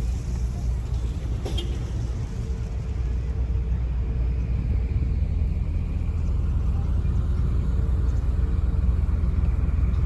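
A boat's diesel engine running with a steady low rumble, with a faint steady hum above it and one brief click about a second and a half in.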